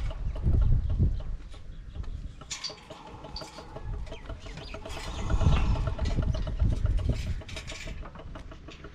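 Old Ruston diesel engine being started, with uneven low rumbling and a quick, evenly repeating beat running through it.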